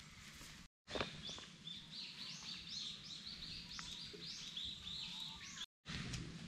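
A songbird singing a quick run of short, high, repeated notes, about three a second, starting about a second in and stopping near the end.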